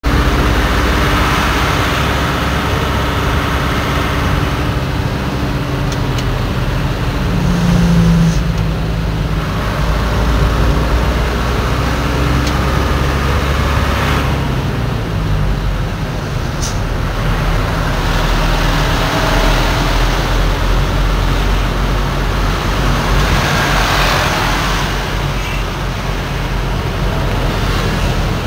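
Heavy trucks driving past in a convoy: diesel engines running with tyre and road noise that swells and fades as each one passes. A brief low steady tone sounds about eight seconds in, the loudest moment.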